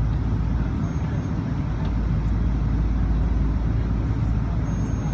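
Steady jet engine and airflow noise inside the cabin of a Boeing 777-200ER, a deep, even rumble with no change in level.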